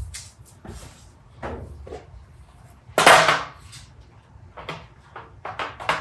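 A series of short knocks and scrapes of hard objects being handled and set down, with one louder scraping clatter about three seconds in and a quick run of knocks near the end.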